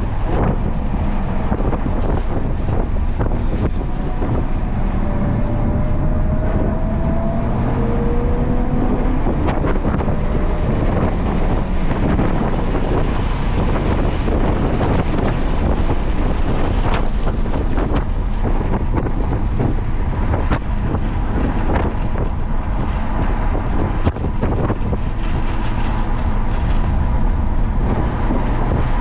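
A car driven at speed: engine and road noise with heavy wind buffeting on the microphone, the engine pitch rising and falling.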